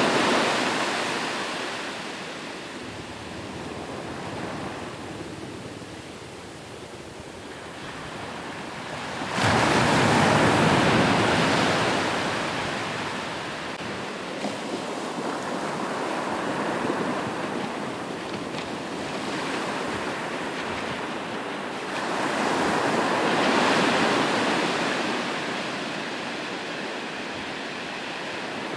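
Sea waves breaking on a shore, surging and washing back. Three big breakers come at the start, about nine and a half seconds in and about twenty-two seconds in, each dying away over several seconds.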